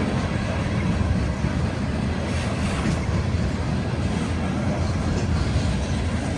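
Loaded coal train's diesel locomotives working up a grade: a steady low rumble.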